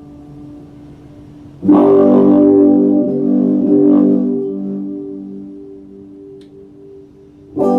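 Epiphone Les Paul Special II electric guitar: a chord is strummed once about a second and a half in, then rings and slowly fades over several seconds. A fresh chord is struck right at the end.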